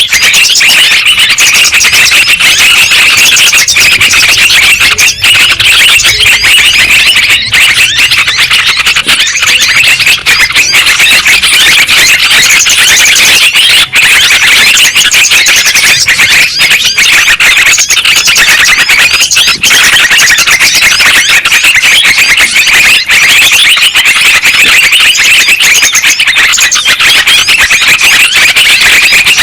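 Yellow-vented bulbuls (trucukan) calling and chattering without pause, many calls overlapping into a dense, loud chorus.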